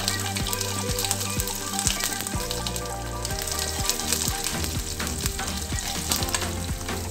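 Chopped ginger and green chillies sizzling and crackling in hot oil with cumin and curry leaves in a steel kadai, a tadka being tempered. A metal ladle stirs through it in the second half.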